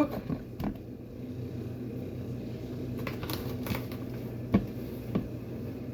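Raw chicken pieces being handled and rolled in a pan, giving scattered soft clicks and knocks, with two sharper knocks near the end, over a steady low hum.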